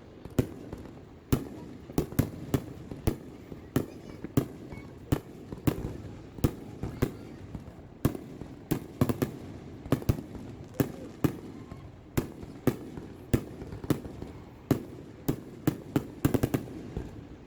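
Aerial fireworks show with shells bursting in quick, irregular succession, about two sharp bangs a second over a continuous rumble, and a rapid cluster of bangs near the end.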